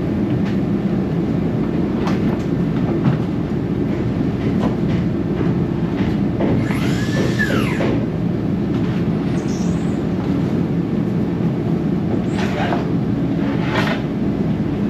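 A vehicle on the move: a steady low rumble of engine and road noise, with a few brief clatters and a short rising-and-falling squeal about seven seconds in.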